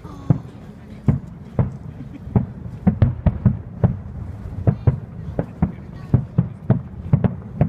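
Fireworks display: a rapid, irregular run of loud bangs from bursting aerial shells, about two to three a second, starting just after the start.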